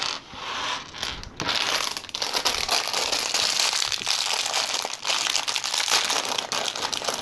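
Plastic LEGO parts bags crinkling as they are handled, with the small clicks of loose plastic pieces moving inside.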